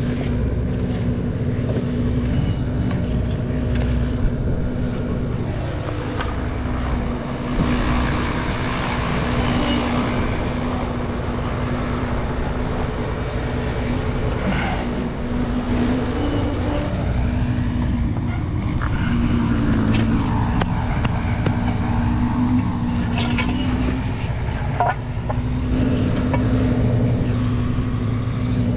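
A motor vehicle's engine running steadily, with a low rumble and a held hum that wavers slightly in pitch now and then.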